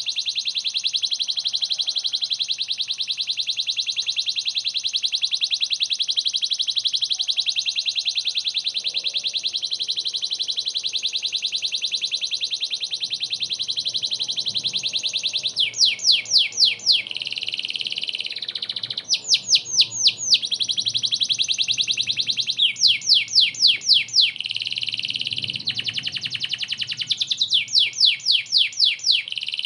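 Domestic canary in full song: a long, fast, unbroken trill for about fifteen seconds, then four short bursts of quick sweeping notes, each alternating with a shorter stretch of trill.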